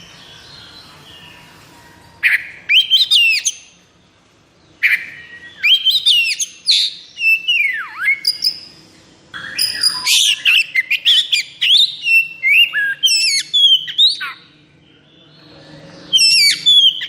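Oriental magpie-robin (kacer) singing in the fast, agitated 'konslet' style: short bursts of rapid, sharp whistles and sweeping glides with pauses between phrases, and a dense run of song through the middle.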